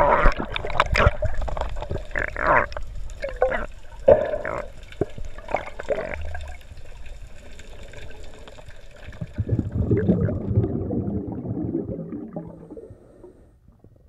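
Sea water splashing and sloshing around an action camera at the surface, in irregular sharp splashes for the first several seconds. Later comes a muffled, rumbling wash of water and bubbles heard with the camera under the surface, which fades away near the end.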